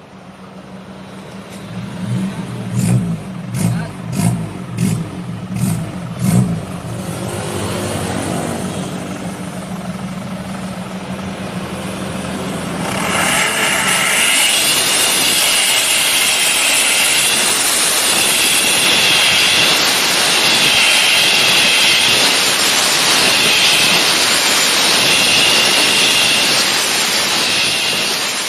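Engine fitted with an aftermarket racing exhaust, blipped about six times in quick revs, then held up from about halfway. The exhaust gives a loud jet-like whoosh with a wavering high whistle.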